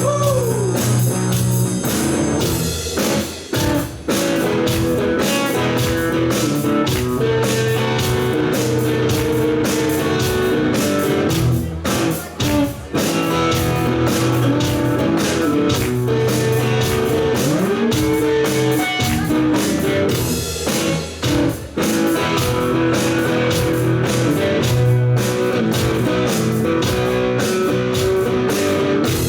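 Live blues-rock band playing an instrumental break: lead guitar with bent notes over drums and bass.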